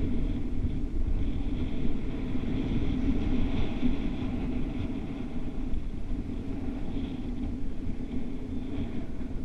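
Wind rushing over the microphone during flight, a steady low buffeting rumble with a fluttering hum.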